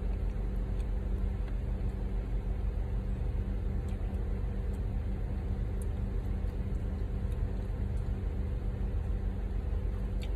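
Car engine idling steadily: an even low hum with no change in pitch.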